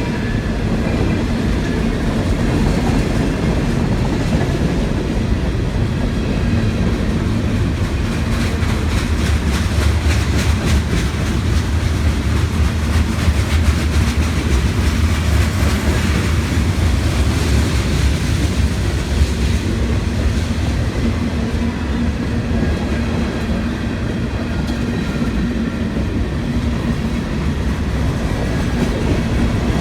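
Long freight train rolling past close by: a steady rumble of the cars, with the wheels clicking over the rail joints.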